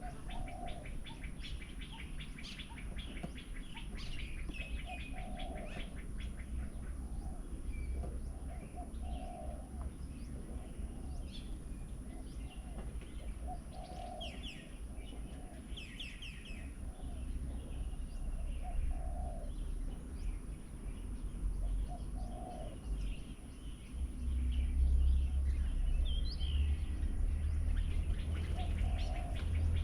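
Several wild birds chirping and calling, with quick high chirps and trills and a low hooting note that comes back every few seconds. A low rumble underneath grows stronger near the end.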